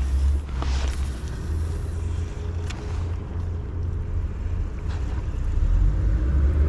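Low rumble of wind on the microphone, with a few faint clicks.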